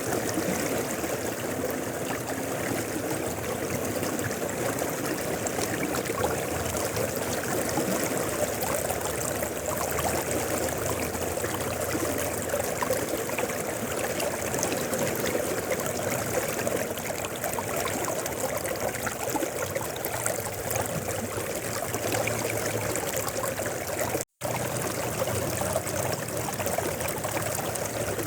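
Mountain river flowing: a steady, even rush of running water, with a split-second cut to silence near the end.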